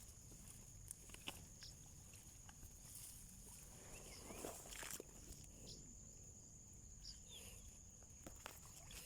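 Faint rural outdoor ambience: a steady high-pitched insect drone, with scattered light clicks and rustles.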